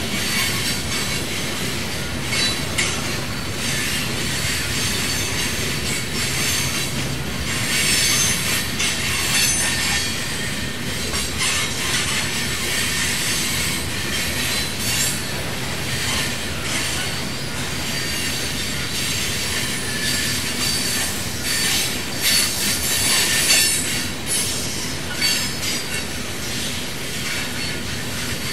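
Train rolling past: a steady rumble of cars going by, with high-pitched wheel squeal against the rails that flares up again and again, and some clicking of wheels over the track.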